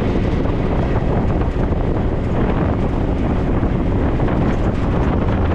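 Off-road vehicle driving on a dirt track: a steady engine drone and road rumble, with wind buffeting the microphone.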